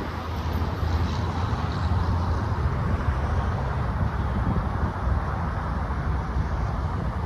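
Amtrak passenger train passing with a steady low rumble, a little louder from about a second in.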